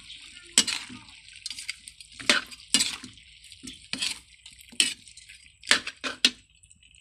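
A metal cooking utensil knocking and clinking against a pot or pan during cooking: about nine sharp separate knocks at uneven intervals, over a faint steady hiss that fades out about halfway through.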